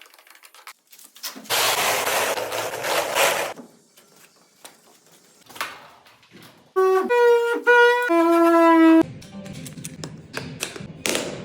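A horn-like instrument sound plays a few held notes that step in pitch for about two seconds, the loudest thing here. Earlier there is a two-second burst of hissing noise and some scattered clicks.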